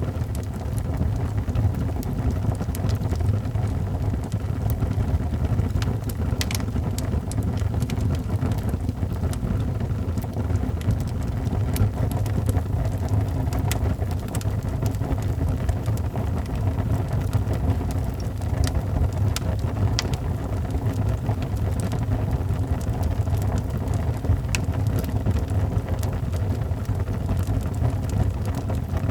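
Wood fire in a fireplace crackling, with sharp pops and snaps at irregular moments over a steady low rumble.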